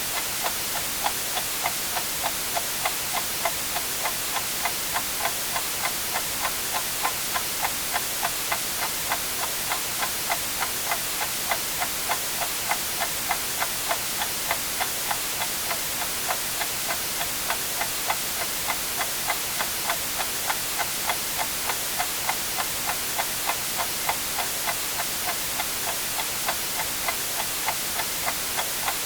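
A clock ticking steadily, about two ticks a second, over a continuous hiss of white noise.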